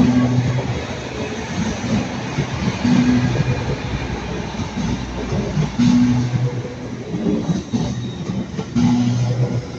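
A passenger train running past close by: a continuous rumble of wheels and running gear with a pulsing low hum.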